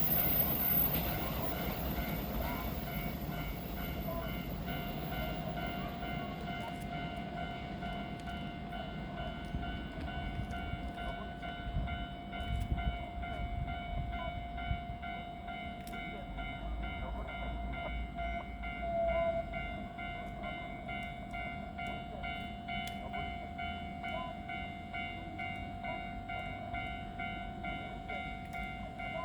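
Electric train standing at a platform after pulling in, its onboard electrical equipment giving off a steady whine over a low rumble, with a few faint clicks.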